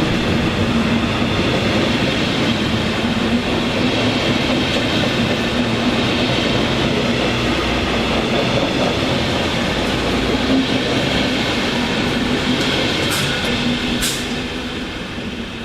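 A train running through the station close to the platform, a loud, steady rolling noise that fades over the last few seconds. Two brief high-pitched sounds come near the end.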